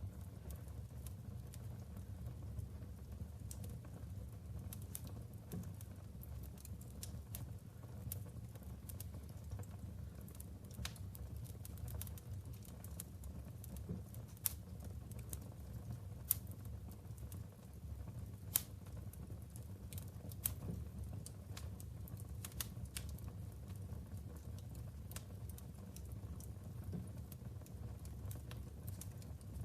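Logs burning in a wood fireplace: a steady low rumble of flame with frequent sharp crackles and pops, a few louder pops in the middle.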